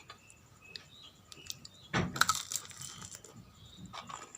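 Light scattered clicks and clinks, with one louder knock about two seconds in.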